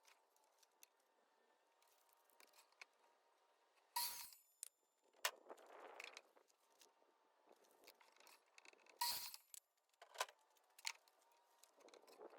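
Faint handling noises: a few sharp, isolated knocks and clicks with two short stretches of soft scuffing.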